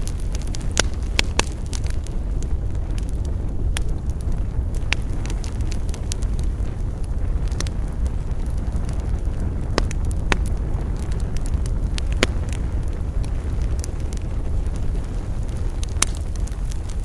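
Wood campfire crackling: sharp, irregular pops and snaps, a few of them louder, over a steady low rumble.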